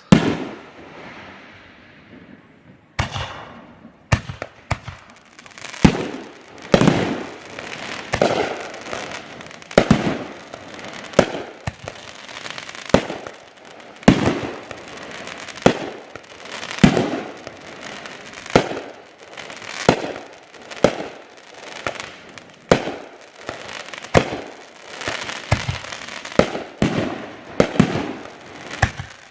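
Aerial fireworks shells bursting in rapid succession, a sharp bang about every one to two seconds, each followed by rolling echoes off the surrounding hills and some crackle.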